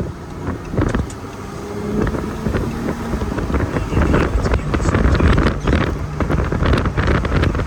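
A car running, with a low rumble, and wind buffeting the microphone in crackling gusts that grow busier in the second half.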